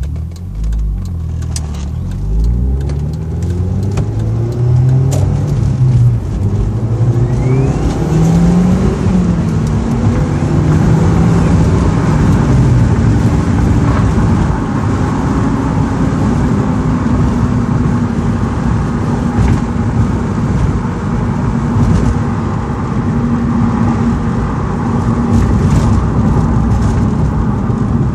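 Audi TT 225 Quattro's turbocharged 1.8-litre four-cylinder accelerating hard through the gears, its pitch rising and stepping down at each shift, then running steadily at speed. About seven seconds in, a thin whistle rises in pitch over the engine. This is the whistle the owner hears only above 15 psi of boost; it persists with the boost leaks fixed and the turbo compressor showing no play.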